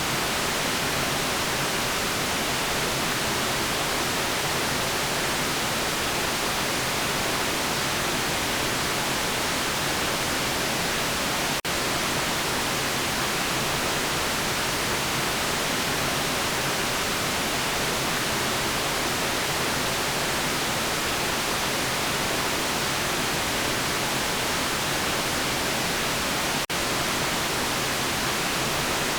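Steady, even white noise hiss, a constant rushing spread across all pitches and brighter in the highs. Two very brief dropouts in level break it, about twelve and twenty-seven seconds in.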